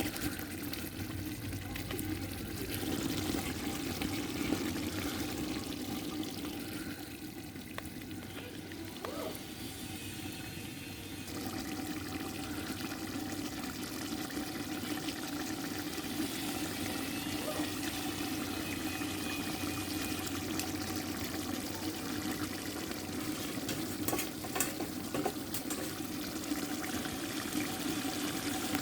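Chicken curry cooking in a pan, a steady sizzling and bubbling, with a few sharp clicks near the end.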